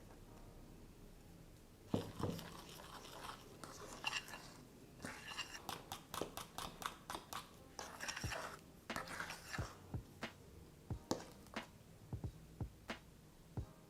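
A utensil stirring and scraping in a mixing bowl while batter is mixed, with irregular knocks against the bowl.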